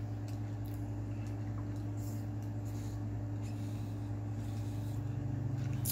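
Soft chewing and small mouth clicks over a steady low hum.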